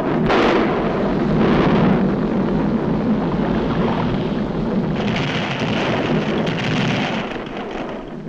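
Continuous rumbling of a volcanic eruption with explosive crashes, a 1940s cartoon sound effect. It swells about a second and a half in and turns hissier about halfway through.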